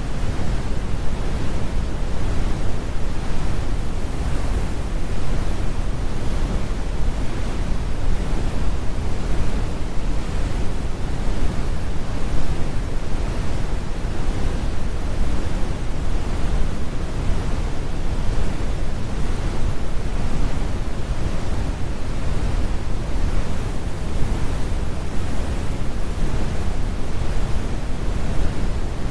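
Synthetic brown noise: a steady, deep rumbling hiss with most of its weight in the bass and the highs rolled off.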